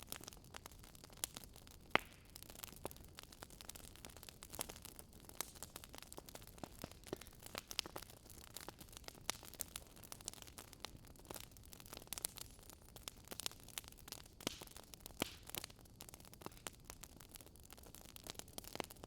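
Faint crackling of a wood campfire: irregular sharp pops and snaps of burning logs over a soft steady hiss.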